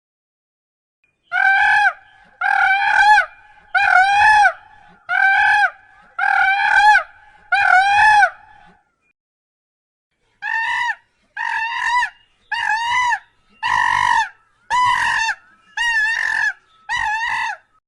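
Domestic fowl giving short, pitched calls over and over at an even pace: six calls about a second apart, a short pause, then seven quicker ones.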